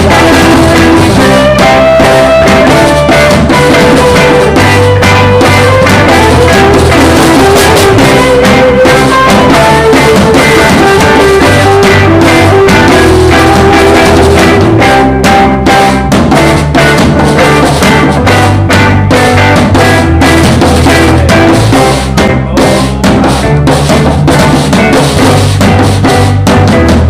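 Live band jamming with drum kit, bass and guitar, recorded so loud that it sits at full scale and sounds distorted.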